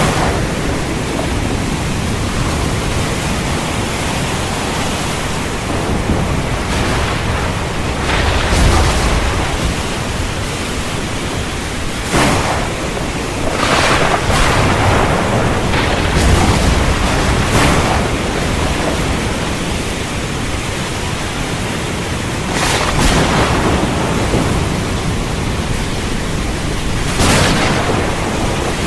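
Heavy rain pouring steadily, with thunder breaking in about half a dozen times as sharp cracks and low rumbles.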